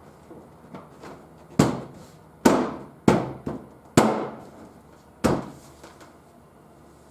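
Five sharp knocks over about four seconds as the car's plastic wheel-well liner and trim are banged into place by hand.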